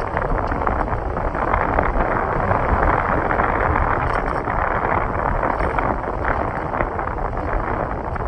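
Steady wind rush over the microphone and road noise from a motorcycle under way.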